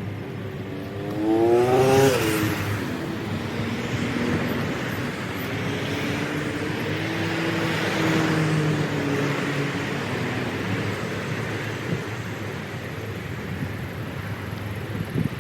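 A motor vehicle's engine revving up, rising in pitch and loudest about two seconds in, then running on steadily.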